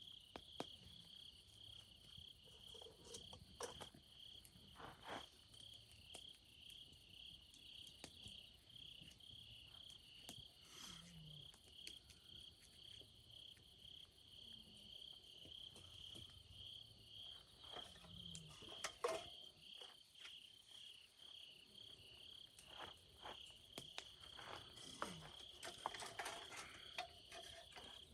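Crickets chirping steadily: a faint, high, even pulsing at about two pulses a second, with scattered faint clicks.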